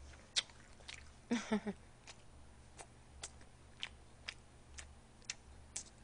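A person chewing a mouthful of food close to a microphone. It comes as scattered soft clicks and wet mouth smacks, with a small cluster about a second and a half in.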